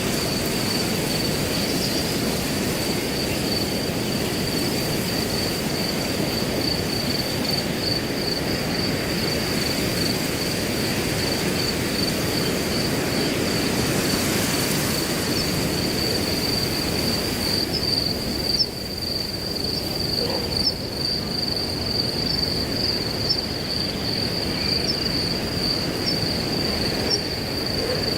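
Wind rushing through grass under a cricket's steady high-pitched trill. About two-thirds of the way in the wind eases slightly and short high chirps come about once a second.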